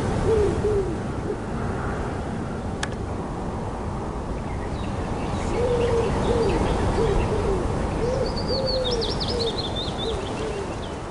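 Birds calling over a steady background of noise: low, rising-and-falling calls in short runs of three or four, with a higher, quick twittering call about eight seconds in.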